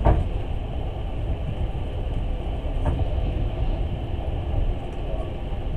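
Passenger train running, the steady rumble of wheels on rails heard from inside the carriage, with a sharp knock right at the start and a weaker one about three seconds in.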